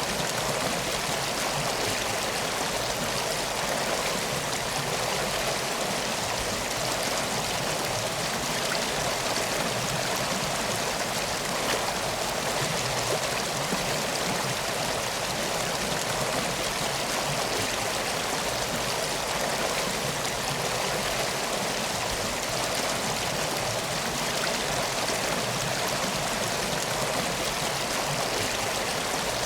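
Steady rushing of flowing water, like a river or stream, running evenly without a break.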